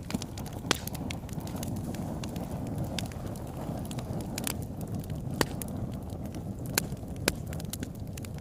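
Wood fire in a fireplace burning with a steady low rumble and hiss, broken by sharp crackling pops scattered through, the loudest a little over five seconds in.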